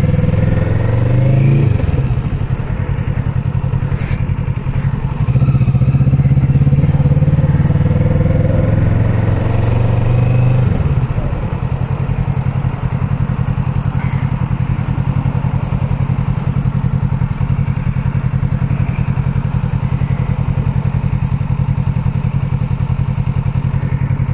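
Kawasaki Ninja 650's parallel-twin engine heard from the saddle, pulling away at low revs with the pitch rising and falling a few times. About ten seconds in it drops back and runs steadily at low revs.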